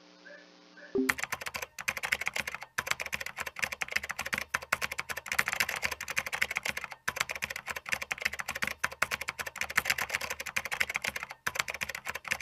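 Rapid keyboard typing clicks, a typing sound effect laid under text that types itself out on screen. It starts about a second in, runs in fast clatters with a few short pauses, and cuts off abruptly at the end.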